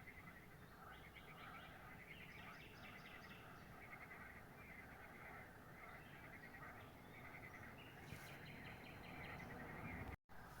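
Faint chorus of many birds chirping, with short rapid trills now and then. The sound cuts out for an instant near the end.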